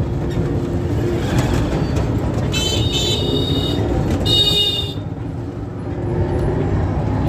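Steady road-traffic rumble, with two short, high horn toots near the middle.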